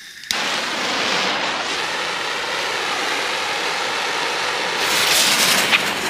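Fuse of a 6-inch halo aerial shell burning with a steady hiss that starts abruptly, growing louder near the end with one sharp crackle.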